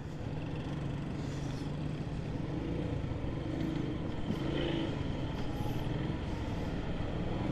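Motorcycle engine running steadily at low revs as the bike creeps along at walking pace.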